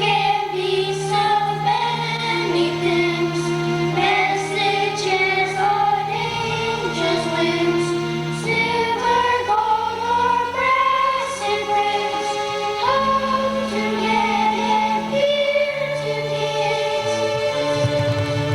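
A choir singing a song over accompaniment music.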